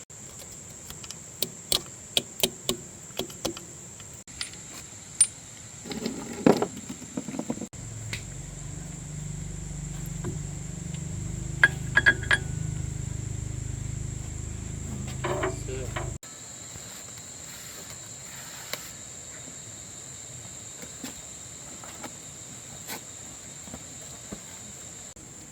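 Scattered sharp metallic clinks and knocks of hand tools and parts being worked, over a steady high-pitched insect drone. A low machine hum comes in about a third of the way through, runs for about eight seconds, and cuts off abruptly.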